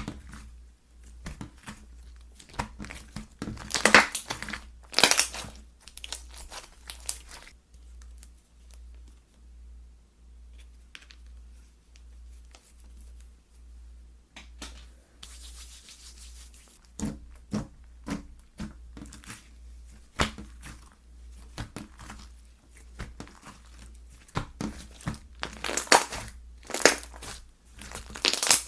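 Slime being squished and stretched by hand, giving dense crackling clicks and pops. It is loudest about four seconds in and again near the end, with a quieter stretch in the middle.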